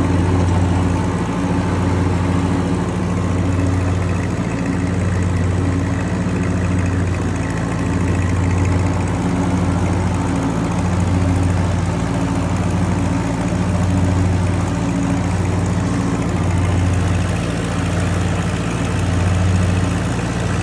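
1963 Ford 4000 tractor's three-cylinder engine running steadily while mowing, with a low throb that pulses every couple of seconds.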